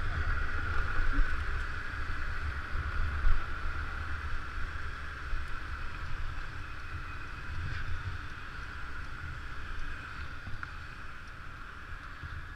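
Riding on a scooter: wind rushing over the microphone, with the scooter's engine running steadily underneath.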